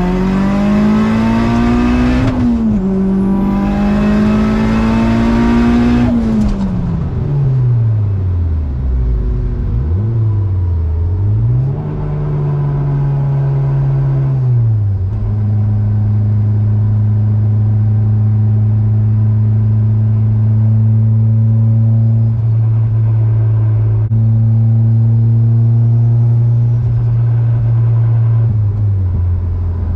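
Big-turbo Mazdaspeed6's turbocharged MZR four-cylinder pulling hard at full throttle, the revs rising, dropping at an upshift about two seconds in and rising again, with a loud turbo hiss over the engine note. The hiss stops as the throttle is lifted about six seconds in and the revs fall. After further gear changes the engine settles into steady cruising at constant revs, heard from inside the cabin.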